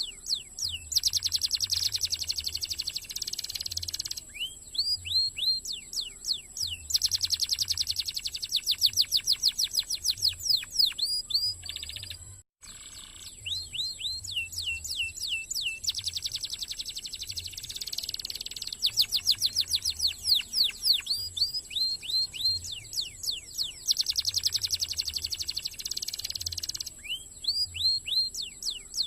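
Domestic canary singing a fast, dense song: long rapid rolls and trills alternate with short phrases of repeated rising chirps, over and over. The song breaks off for a split second about twelve seconds in, then carries on.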